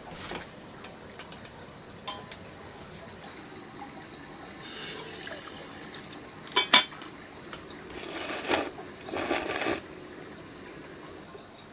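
Tableware being handled: a few sharp clinks of metal or glass, the loudest pair about two-thirds of the way in, and short hissy spells like liquid being poured, the strongest two near the end.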